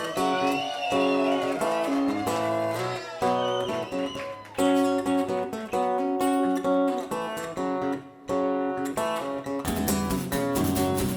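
Guitar music: strummed and picked guitar chords ringing in sustained notes, with a higher melodic line that glides in pitch.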